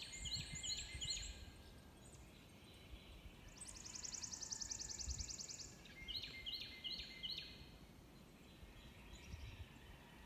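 Songbirds singing: a short phrase of about four quick high notes, heard at the start and again about six seconds in, with a fast high trill between them, over a faint low rumble.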